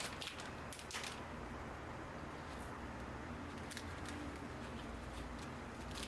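Scattered light clicks and taps of kitchen handling, a cluster in the first second and then single ones every second or so, over a low steady hum.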